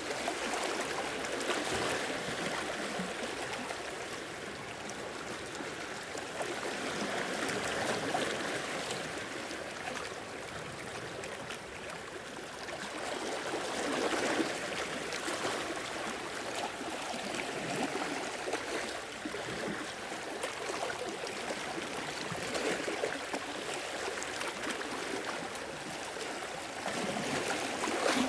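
Small sea waves washing in and trickling back over rock and sand, swelling every few seconds.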